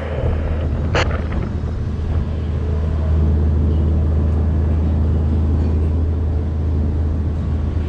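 Heavy crane's engine running with a steady low drone under wind noise during the lift.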